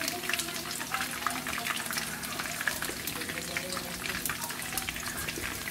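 Chicken pieces shallow-frying in hot oil in a pan: a steady sizzle with dense, continuous crackling pops.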